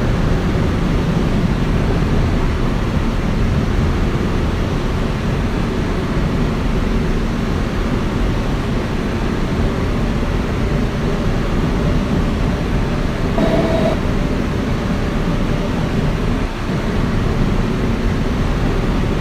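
Kawasaki R160B subway car with Siemens propulsion running between stations, heard from inside the car: a steady rumble of wheels on rail. A short, steady motor whine sounds briefly a little past the middle.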